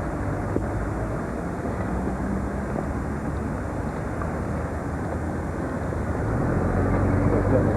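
Steady rumble of city street traffic, growing louder near the end.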